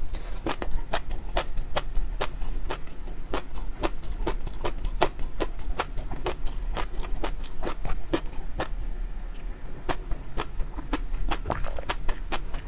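Close-miked ASMR chewing: wet mouth clicks and smacks, several a second, in an uneven rhythm.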